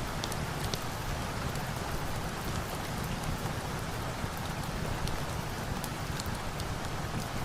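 Steady rain falling, with scattered small sharp crackles from a wood fire.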